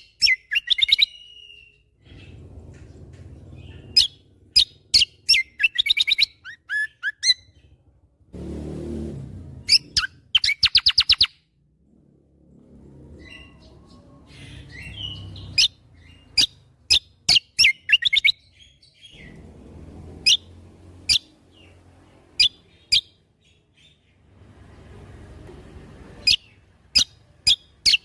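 Kecial kombo singing in loud, rapid bursts of sharp, high, clipped whistle notes ('tembakan' shots), some clusters running fast trills, with short pauses between phrases. A low rumbling background noise rises several times between the phrases.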